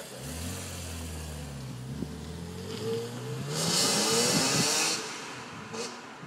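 BMW E46 M3's straight-six engine and exhaust accelerating hard, its pitch rising from about two seconds in and loudest around four seconds in, then dropping away.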